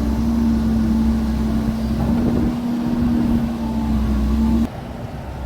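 Diesel dump truck engine running at a steady idle: a low rumble with a steady hum. It drops away suddenly near the end.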